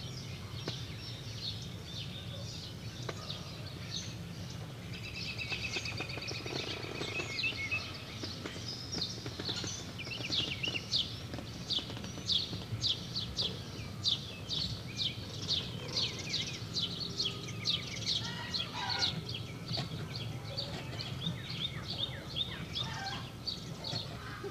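Birds chirping: many short, high calls in quick runs, busiest in the middle stretch, over a steady low hum.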